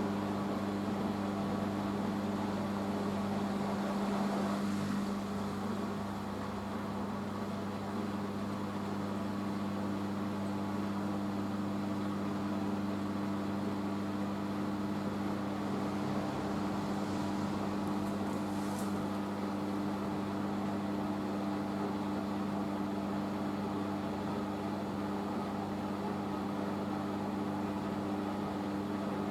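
Hoover H-Wash 500 washing machine spinning its drum at a steady speed during the rinse spin, a steady hum.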